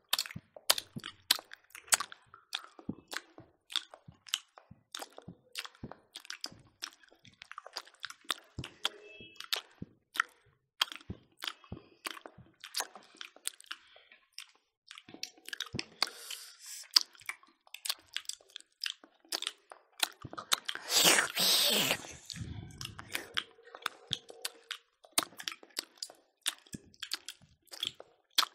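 Close-miked mouth sounds of people eating smoked pork and rice with their hands: wet chewing and lip smacking as many sharp, irregular clicks. About twenty-one seconds in there is one louder rushing sound lasting about a second and a half.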